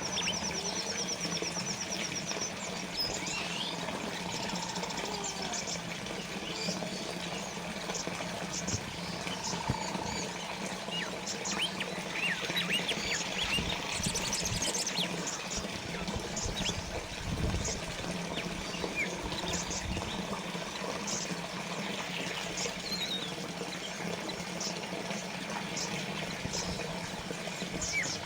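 Fountain water trickling and splashing steadily, with small birds chirping and giving short high trills over it, a fast trill at the start. A steady low hum runs underneath.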